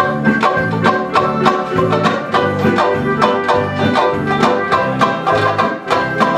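Instrumental break between verses of a comic song: strummed string accompaniment in a quick, steady rhythm of about four strokes a second, with no singing.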